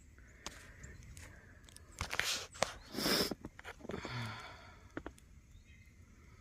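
Footsteps in about two inches of fresh snow: a few scattered steps, with the loudest two or three coming between two and three and a half seconds in.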